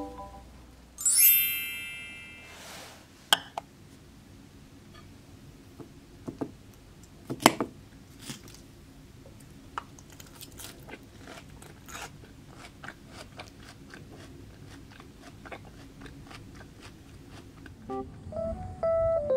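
A person chewing a cabbage-and-potato salad, with many small crisp crunches and a few sharper clicks. A short bright chime-like effect sounds about a second in, and piano music comes in near the end.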